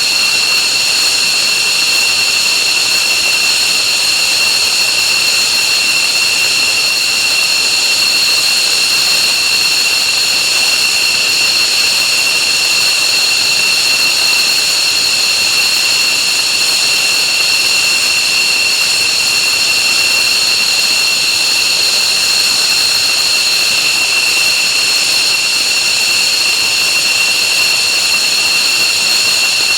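F-15J's Pratt & Whitney F100 turbofan jet engines running steadily, a loud high whine held at one pitch over a rushing roar.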